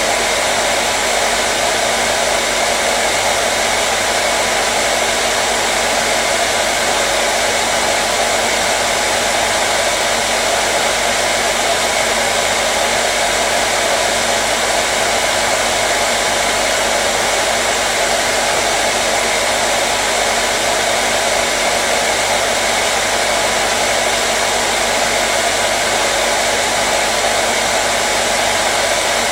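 Electric hair dryer running continuously, a steady, even rush of air with a faint constant motor hum and no change in speed.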